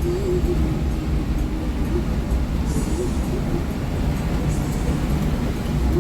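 Steady low rumble of a Hino R260 intercity bus on the move, heard from inside the cabin: the rear-mounted six-cylinder turbo-intercooled diesel and road noise.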